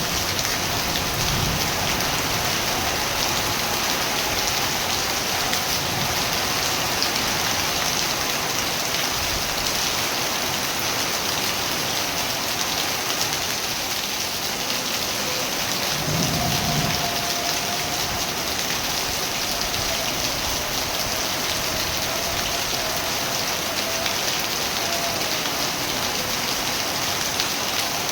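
Steady heavy rain falling, with a brief low rumble of distant thunder about halfway through.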